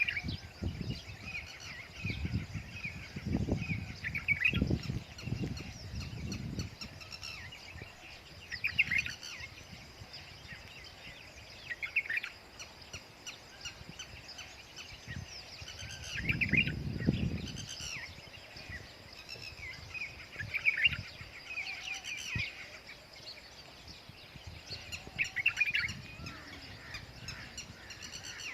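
Birds chirping in short repeated bursts every few seconds, with bursts of low rumbling noise that come and go, loudest near the start and about halfway through.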